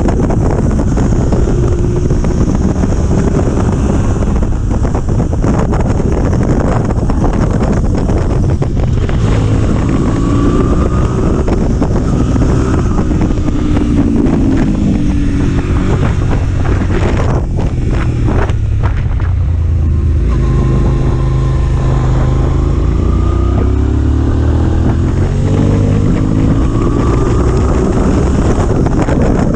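Motorcycle engine running at speed, its pitch rising and falling repeatedly as the bike accelerates and eases off, under steady heavy wind noise on the microphone.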